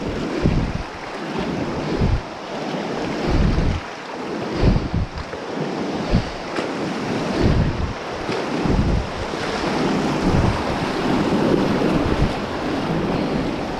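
Whitewater rapids rushing and splashing around a kayak, with uneven low buffeting on the microphone from wind and water.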